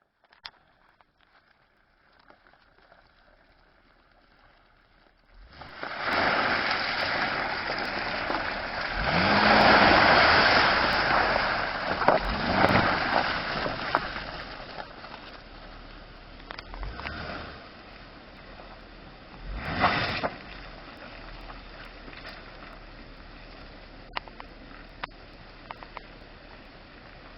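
Acura MDX SH-AWD driving through mud and water: after a few quiet seconds a loud rush of splashing noise builds about five seconds in and lasts several seconds, followed by two shorter, weaker surges.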